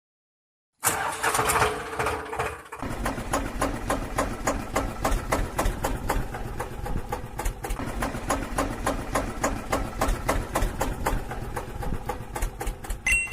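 A mini tractor's motor starts up with a brief steady tone, then runs steadily with a rapid, even ticking beat.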